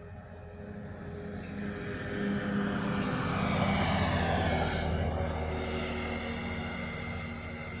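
An aircraft passing over, growing louder to a peak just past the middle and then fading with a falling pitch.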